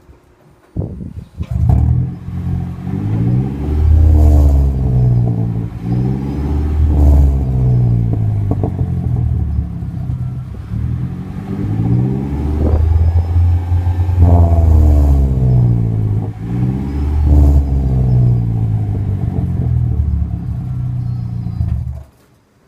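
Toyota Prius engine running through a cheap aftermarket muffler, revved up and back down several times with a low exhaust drone, then cutting off near the end.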